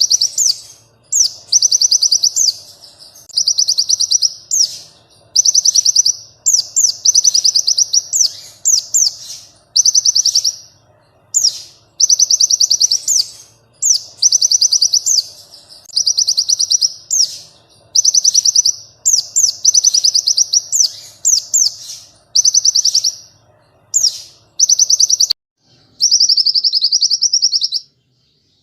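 Konin bird singing loud, rapid high trilled phrases of about one to two seconds each, repeated with short pauses. Near the end comes a lower warbling phrase. This is a lure (pancingan) recording played to prompt caged konin to sing.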